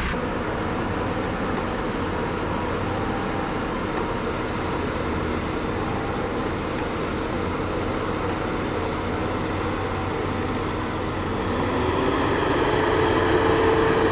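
Engine running steadily, then revving up about twelve seconds in and holding at the higher pitch, louder.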